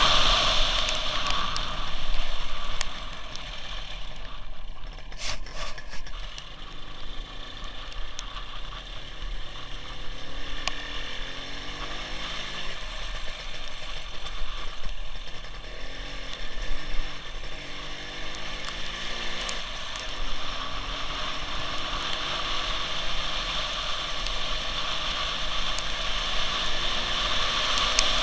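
WSK 175 single-cylinder two-stroke motorcycle engine on the move, its pitch rising and falling with throttle and gear changes. A loud rushing noise in the first few seconds drops away as the bike slows, and the engine grows louder again near the end.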